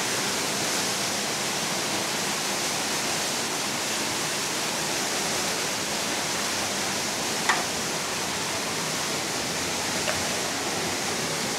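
Waterfall water rushing in a steady, even roar. A brief falling squeak comes about seven and a half seconds in.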